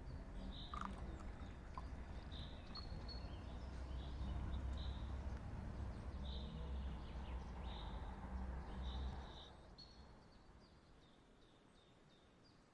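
A bird chirping over and over in short, high notes, over a low rumble that fades away about nine seconds in.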